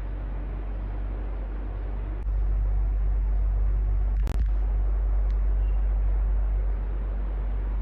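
Electric fan running steadily with a low hum and airy whoosh; the low hum gets louder about two seconds in and eases back near the end. A single sharp click about four seconds in.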